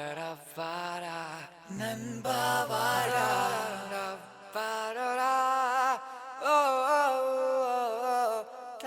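A voice singing long, wavering, ornamented notes with no clear words, as part of a Tamil song.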